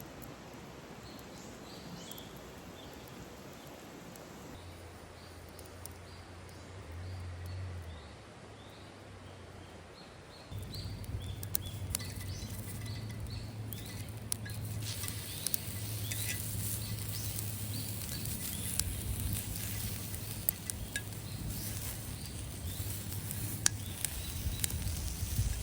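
Outdoor natural ambience with faint, short, high bird chirps. About ten seconds in it grows louder, with a low steady hum and frequent sharp crackles and clicks.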